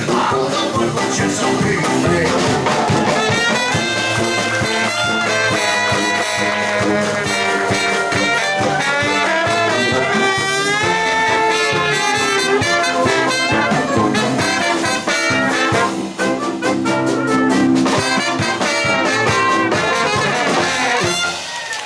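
Traditional jazz band playing an instrumental chorus, with trumpet and trombone out front over a steady swing beat. The tune comes to its close near the end.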